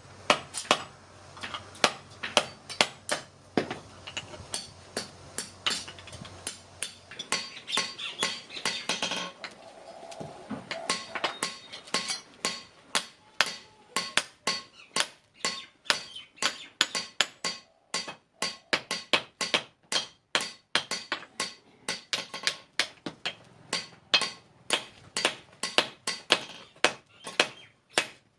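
Blacksmith's hammer striking steel on an anvil while forging a spade, ringing blows in a steady rhythm of about two to three a second.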